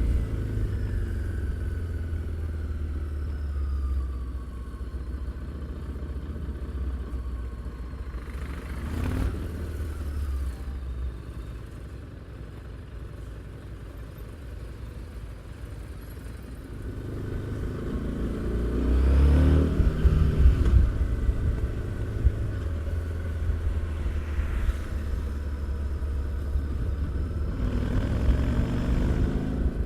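Harley-Davidson Street 750's liquid-cooled V-twin engine and exhaust on the move. It drops back to a low rumble for several seconds, then revs up to its loudest about eighteen seconds in before settling to a steady run.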